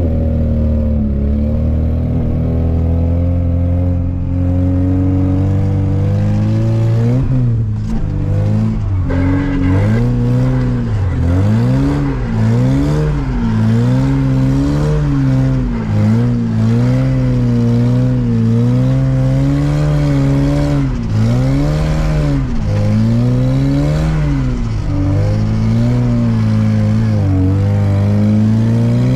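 VAZ Zhiguli's four-cylinder engine heard from inside the cabin, running steadily at first, then revving up and falling back again and again, every second or two, as the throttle is worked on the snowy road.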